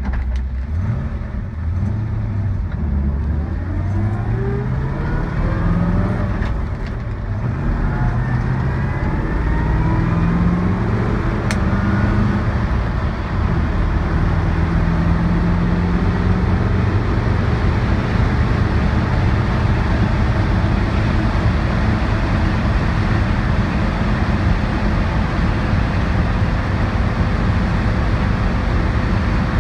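1959 Chevrolet Corvette's 283 V8 accelerating from low speed, its pitch rising through two gears with a drop at each gear change, about 7 and 13 seconds in. After that it settles into a steady highway cruise under a constant rush of road and wind noise, heard from the driver's seat.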